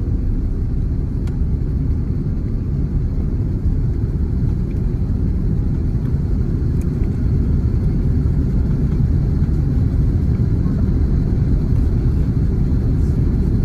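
Airbus A330-300 airliner in flight, a steady low rumble of its engines and airflow.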